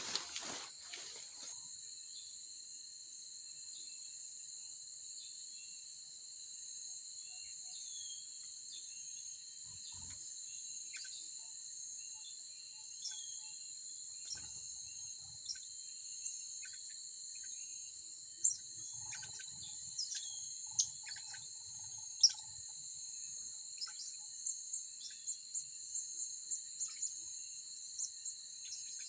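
Steady high-pitched insect drone with short, sharp, high bird chirps over it, scattered at first and coming in quick runs near the end: calls of blue-crowned hanging parrots (serindit) around a decoy trap cage.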